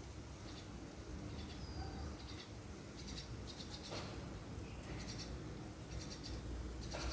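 Small birds chirping in short clusters of quick high notes that recur every second or so, with a sharp click about four seconds in and another near the end.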